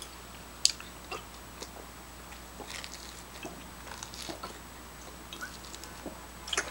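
Soft chewing and mouth sounds of people eating tacos, with scattered small clicks and crackles and one sharp click about half a second in.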